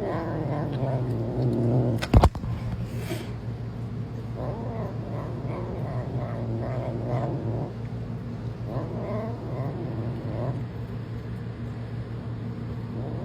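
Bengal cat growling and yowling in repeated calls over its meat, with one sharp knock about two seconds in.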